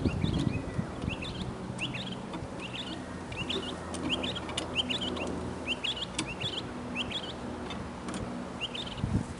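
Birds chirping outdoors, short quick chirps repeating every half second or so, over a low steady hum.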